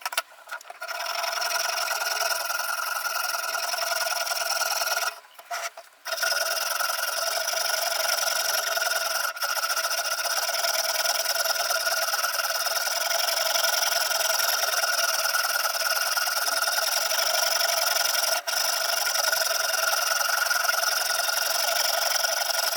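Sharpening stone rubbing along a steel knife blade in a guided knife sharpener, a continuous rasping scrape that breaks off briefly about five seconds in.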